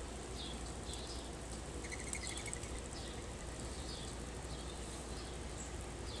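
A bird chirping over and over, a short high note repeated regularly a little under twice a second, with a brief buzzy trill about two seconds in, over a steady wash of storm runoff.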